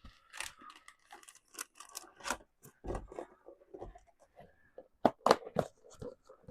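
Beer cocktail fizzing in a mug, bubbles spritzing and crackling in a quiet, irregular patter of tiny pops.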